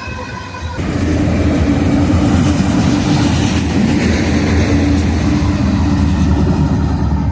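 A BNSF train passing close by: a loud, steady rumble of locomotive and rolling wheels on the rail. It follows a brief ringing, squeal-like tone that cuts off abruptly under a second in.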